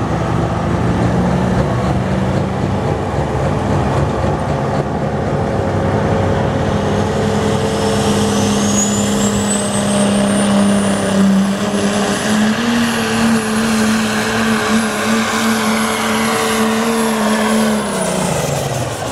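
Turbocharged diesel pickup engine running at full throttle while pulling the sled, its turbo whistle climbing to a high held pitch partway through. Near the end the engine and whistle fall away together as the run ends in a failure: white smoke, which the announcer thinks may mean a blown turbocharger.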